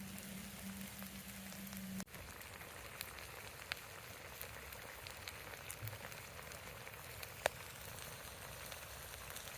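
Food frying in a pan, a steady sizzle with scattered small pops and one sharper pop near the end.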